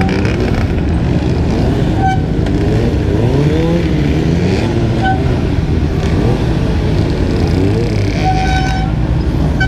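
Dirt bike engines running on the street, revving up and easing off over and over. Short high tones sound twice and again, longer, near the end.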